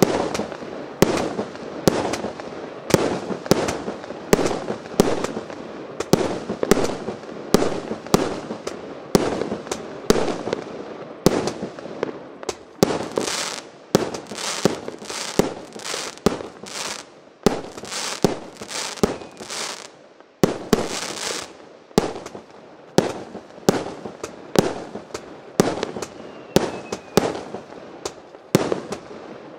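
A 100-shot fireworks cake (P9089 'Lapland') firing a steady run of shots, a little under two a second, each a sharp bang of a shell bursting in the air. For several seconds in the middle a high hiss fills the gaps between the shots.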